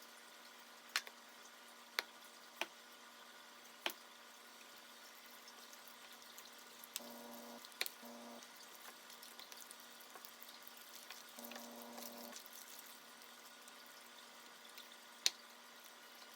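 Sparse light clicks and taps from handling kitchen items, about six in all, the loudest near the end, over a steady faint electrical hum.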